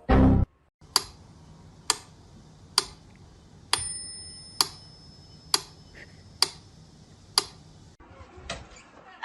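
A short loud thump, then sharp ticks repeating evenly a little faster than once a second, one of them near the middle ringing on briefly.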